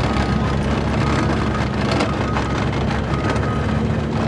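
Engine running steadily at low revs, a low drone, with a thin high tone that sounds briefly a few times.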